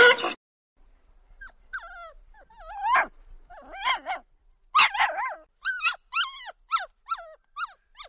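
Yorkshire terrier puppies whimpering and yipping: short, high, gliding whines, growing louder and more frequent after about five seconds, roughly two a second. A loud donkey bray is cut off right at the start.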